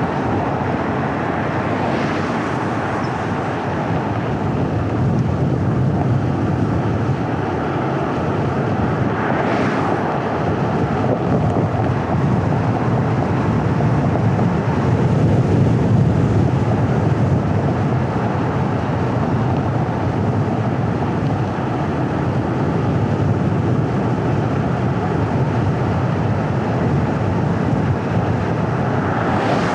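A car driving along a winding road: steady tyre and road noise with a low engine hum and wind rush. Brief swells of hiss come about two seconds in, near ten seconds and at the end.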